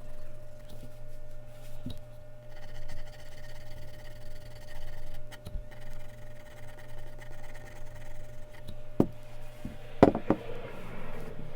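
Mechanical pencil scratching faintly on Bristol paper over a steady low electrical hum, with a few sharp knocks about nine and ten seconds in.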